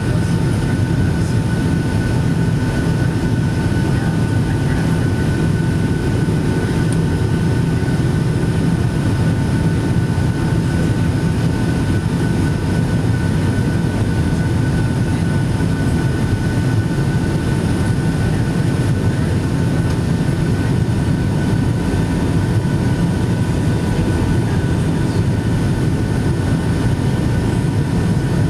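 Steady engine and airflow noise of a Boeing 757-200 heard inside the passenger cabin: a deep, even rumble with two thin steady whine tones above it, unchanging throughout.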